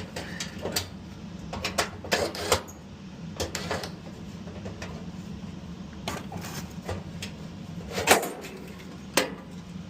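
Irregular clicks and knocks of hands and tools working on a clothes dryer's metal parts to take a part off, the loudest knock about eight seconds in, over a steady low hum.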